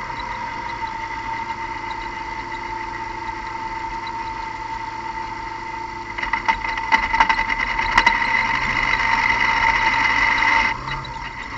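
Car engine running with a steady high-pitched whine; about halfway through it gets louder and rougher with sharp crackles, then drops back suddenly near the end.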